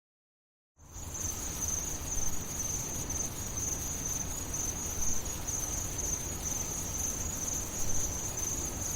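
Crickets trilling in one steady, high-pitched, unbroken chirr over a faint low background hum, starting about a second in after a moment of dead silence.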